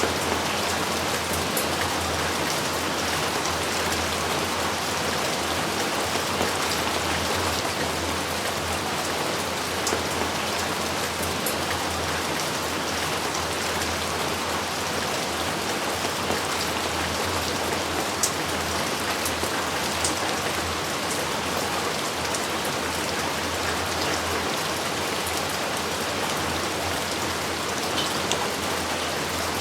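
Steady heavy rain falling, a dense even hiss with a few sharper drop ticks scattered through; no thunder is heard.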